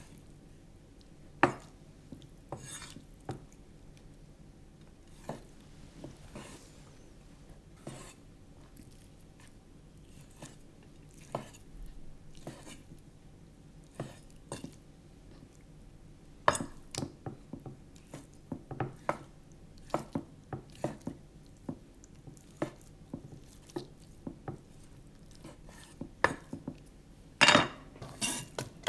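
Kitchen knife and dish sounds: irregular knocks and clicks of a knife on a chopping board and of bowls and utensils being handled while raw chicken breast is diced. A quicker run of taps comes about two-thirds of the way through, and a loud clatter comes near the end.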